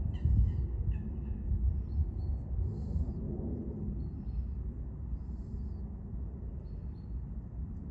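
A quick series of bird calls that stops about a second in, then faint high chirps from other birds now and then, all over a steady low rumble.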